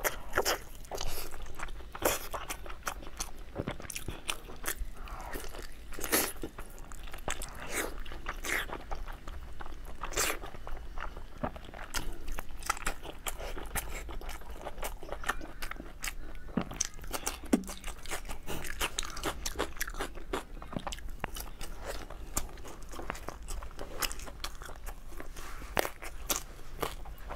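Close-miked biting and chewing of braised pork knuckle, with irregular sharp clicks and crunches several times a second.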